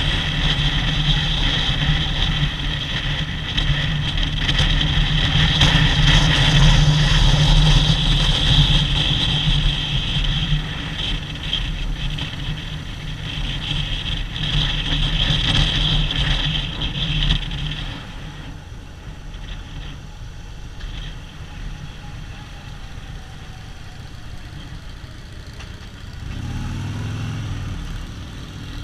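Harley-Davidson V-twin motorcycle engines running on the road. The sound is steady and loud at first, drops noticeably quieter about two-thirds of the way through, and the low engine note picks up again near the end.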